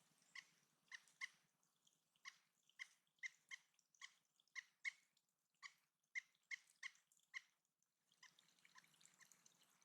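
Pileated woodpecker making about fifteen short, sharp sounds at uneven intervals, roughly two a second, which stop about three quarters of the way through. A faint trickle of water follows near the end.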